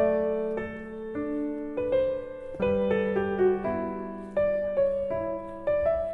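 Background piano music: a gentle, slow melody of single struck notes over sustained low bass notes.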